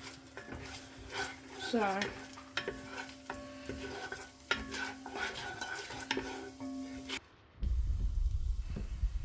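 A utensil stirring garlic in sizzling melted butter in a pan, with frequent clicks and scrapes against the pan. Near the end it cuts off suddenly and a low rumble takes over.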